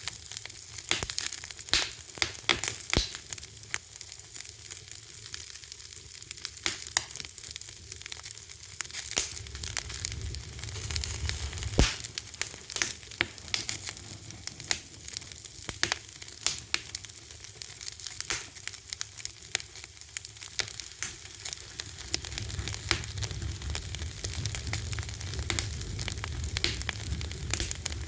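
Wood fire burning with steady crackling: a hiss full of frequent sharp pops and snaps, one louder pop about twelve seconds in, and a low rumble of flame that comes and goes.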